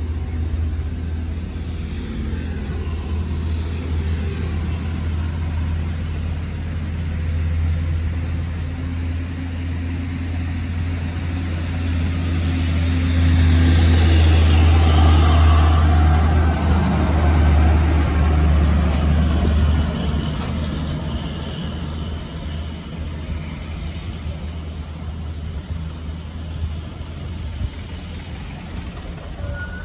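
Heavy truck with a trailer, overloaded with sugarcane, running with its engine drone low and steady. It grows louder about halfway through and then fades, as the truck passes.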